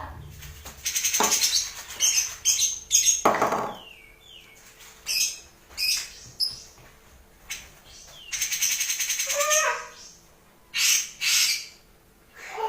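Cucak jenggot (grey-cheeked bulbul) singing in short, rapid, harsh bursts separated by brief pauses, some phrases sliding quickly down in pitch.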